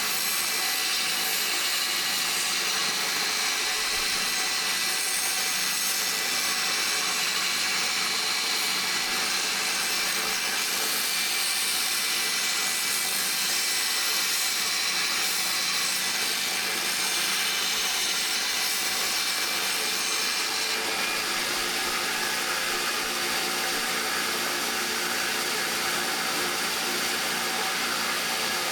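Power tool running continuously with a steady whine; its tone changes about twenty seconds in.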